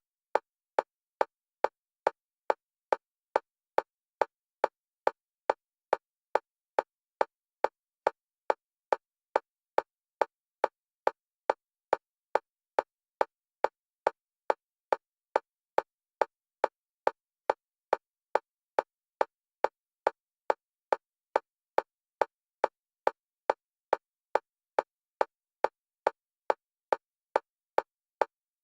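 Metronome clicks for EMDR bilateral stimulation, alternating between the left and right stereo channels, evenly spaced at about two a second. Each click is a short tick on a single pitch, all at the same loudness.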